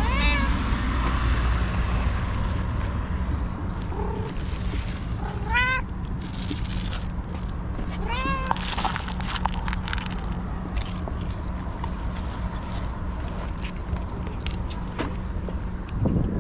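A cat meowing: three meows several seconds apart, one at the start, one about six seconds in and one about eight seconds in, over a steady low hum, with short clicks and rustles between them.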